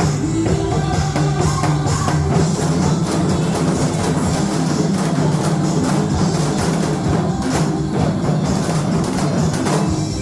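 Upbeat recorded song with a steady drum beat, and janggu (Korean hourglass drum) strokes played along in time with it.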